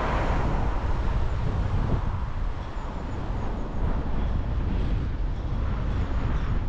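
Car on the move: a steady low rumble of road and engine noise with wind noise over it, and a louder whoosh at the very start that fades within about half a second.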